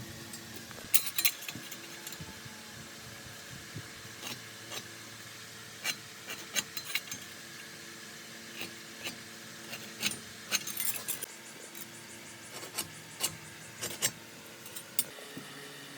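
Irregular light clinks, knocks and scrapes of hand tools and metal parts being handled, in clusters, over a steady low hum.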